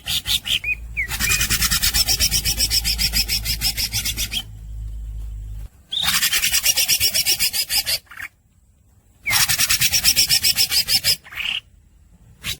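Cucak ijo (greater green leafbird) singing in harsh, rasping runs of rapidly repeated notes, about eight a second. There are three runs, broken by short gaps, with a few short rising whistles between them.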